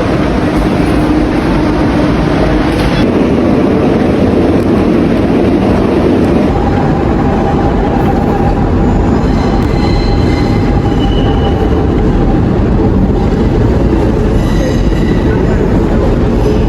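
Train running, heard from on board: a loud, steady rumble with thin high squealing tones from the wheels on the rails.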